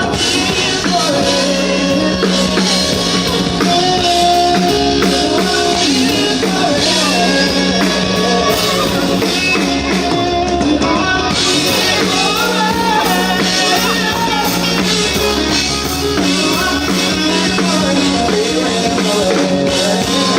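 Live rock band playing amplified through a PA, with drums, guitar and a steady beat and some singing.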